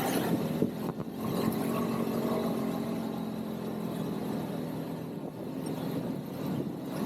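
ATV engine running at a steady pace during a ride, over a hiss of wind and rolling noise. The engine note dips briefly about a second in.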